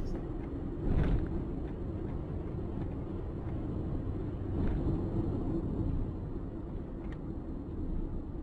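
Steady low rumble of a car's engine and road noise, as picked up by a dashcam, with a few faint knocks about a second in, near the middle and near the end.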